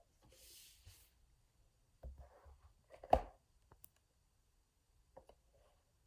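Quiet handling noises: a short rustle near the start, a soft knock about three seconds in, and a few faint clicks.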